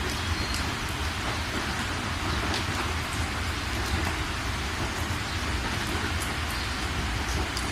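Steady rain falling, with scattered drops ticking sharply on nearby surfaces over a constant low rumble.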